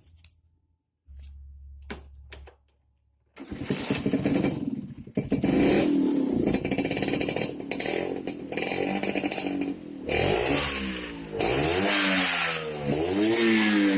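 Vespa scooter engine with a racing exhaust starting about three seconds in and running loud. Near the end it is revved in repeated blips, the pitch rising and falling each time.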